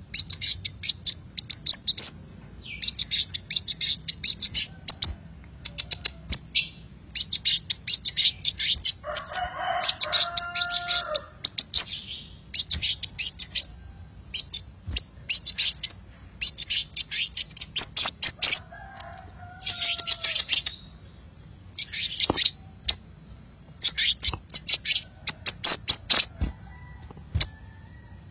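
Sunbird ('kolibri') lure song: rapid, high-pitched chirping and twittering in quick bursts with short gaps between them. A lower, wavering call breaks in around ten seconds and again around twenty seconds.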